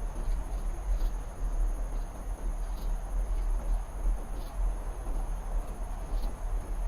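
Insects, typical of crickets, trilling steadily at a high pitch over a constant low rumble.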